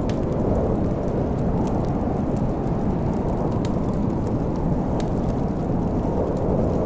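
Steady low rumble of snowstorm wind, with the sharp, scattered crackles and pops of a wood fire every second or so.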